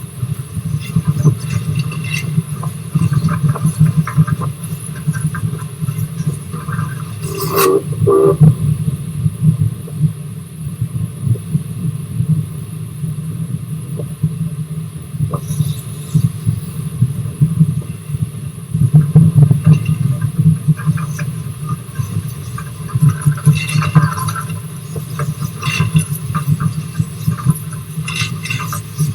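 Rx207 heritage steam train running along the track: a steady, fast-flickering low rumble, with a short sharper sound about seven to eight seconds in.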